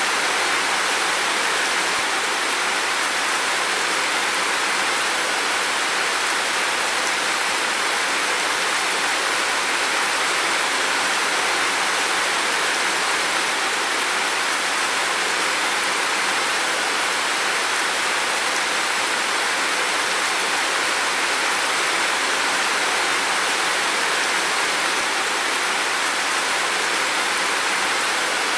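Heavy rain falling steadily, an unbroken hiss of water.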